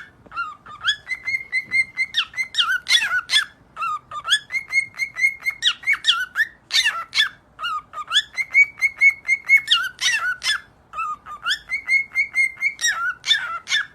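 Cockatiel whistling a learned tune over and over: each phrase is a quick run of same-pitch notes followed by falling and rising slides, repeated about every three seconds.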